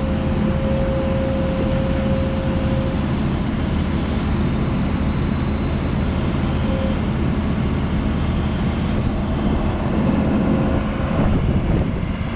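A large engine idling steadily, with wind noise on the microphone. A thin steady whine sits over the engine for the first few seconds.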